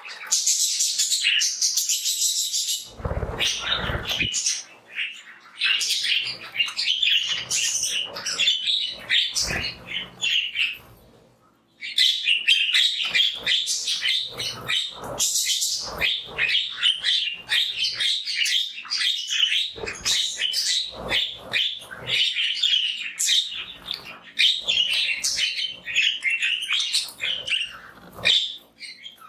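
A flock of budgies chirping and chattering without pause, busy overlapping warbles and tweets. The chatter drops out briefly about eleven seconds in and starts again abruptly.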